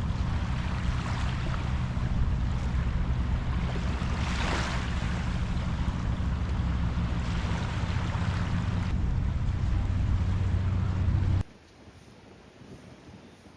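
Small waves washing onto a sandy beach, a hissing swell every three to four seconds, over a steady low rumble. The sound drops off suddenly to a much quieter level near the end.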